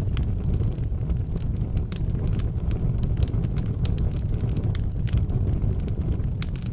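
Wood fire burning in an outdoor fireplace: frequent sharp crackles and pops over a steady low rumble.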